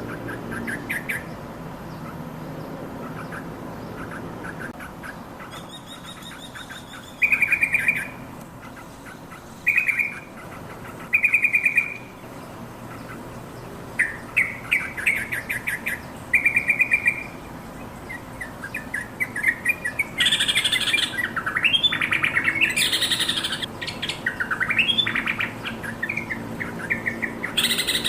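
Yellow-vented bulbul calling: short, rapid chattering bursts, then, about twenty seconds in, a louder song of rising and falling notes.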